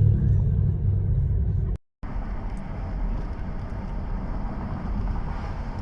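A car driving, a steady low rumble of engine and road noise. It is loud at first, cuts out briefly about two seconds in, then resumes quieter with more hiss.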